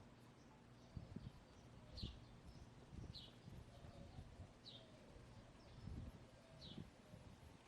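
A small wild bird repeating a short, high chirp that slides downward, about five times at intervals of one to two seconds, faint against low scuffing thuds.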